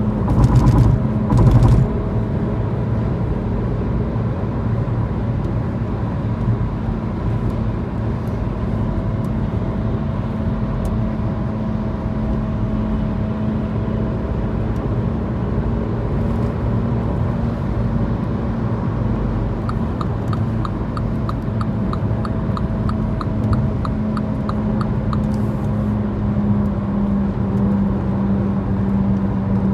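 Mini Cooper F56 driving with a steady low humming over road rumble, which the owner takes for a bad wheel bearing. The hum sinks slightly in pitch near the end. A couple of louder jolts come in the first two seconds, and a regular ticking of about three a second runs for several seconds past the middle.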